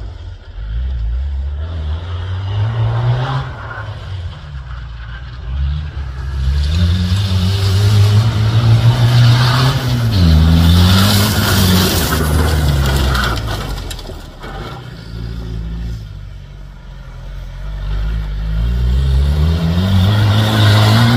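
Off-road competition vehicle engine revving hard along a forest track, its pitch climbing and dropping with gear changes. It is loudest about halfway through, eases off, then builds again near the end.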